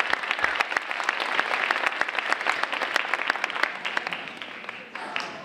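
Audience applauding, many hands clapping at once, fading away over the last second or so.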